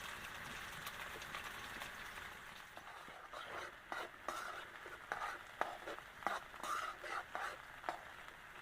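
Food frying in a pan and being stirred with a utensil: a steady sizzle, then from about three seconds in a run of short scrapes and knocks.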